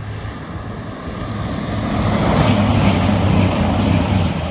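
CrossCountry Voyager diesel train passing at speed. The engine hum and rush build over the first two seconds, stay loud for about two seconds, then fall away near the end.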